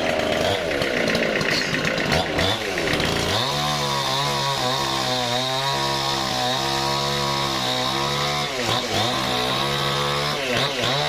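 Engine-driven saw cutting wood. It revs with its pitch dipping and rising in the first few seconds, runs steadily under load through the middle, then dips and rises again near the end.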